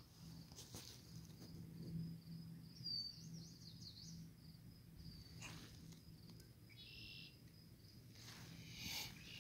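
Quiet natural ambience: a few faint bird chirps and calls over a low steady hum, with a short rapid trill about seven seconds in.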